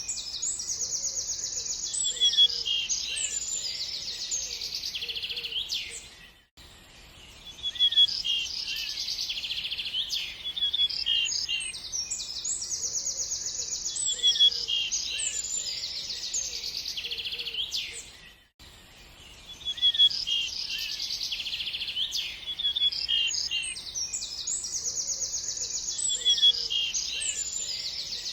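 Songbirds chirping and trilling together in rapid, high-pitched phrases. It is a short recording looped over and over, repeating about every twelve seconds with a brief dip at each join.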